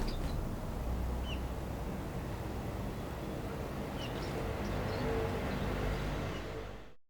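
A steady low outdoor rumble, with a few short, thin call notes from a small garden bird about a second in and again around four seconds in. The sound cuts off suddenly near the end.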